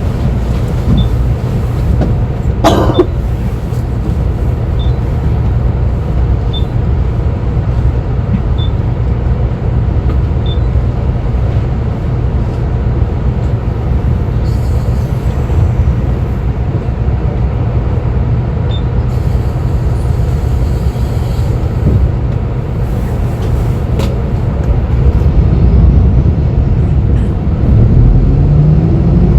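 City bus interior: steady low engine and road rumble, with a sharp clack about three seconds in and short spells of hiss in the middle. Near the end the engine note rises and grows louder as the bus speeds up.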